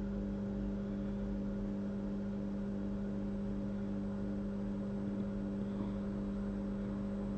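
Steady electrical hum from running equipment, with a faint pulsing tone about three times a second.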